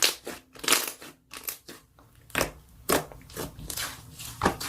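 Slime being squeezed and pressed by hand, giving irregular crunching and crackling pops.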